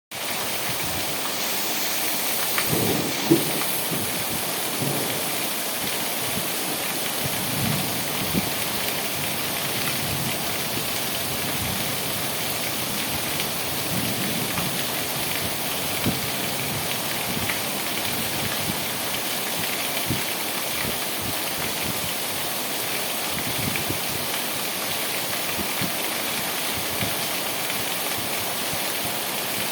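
Steady heavy rain with drops pattering on a surface and scattered dull low thuds, and one sharper knock about three seconds in.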